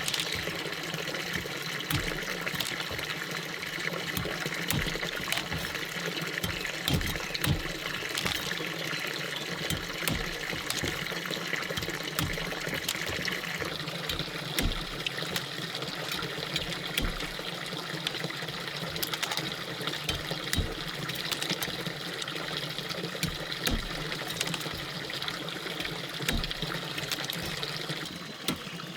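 Running water trickling steadily, with many small clicks and knocks scattered throughout.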